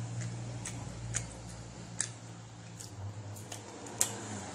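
Close-up eating sounds of fufu with ogbono soup: irregular wet mouth clicks and lip smacks, roughly one every half second, over a low steady hum that fades out about three seconds in. Near the end comes the loudest smack, as she sucks sauce off her fingers.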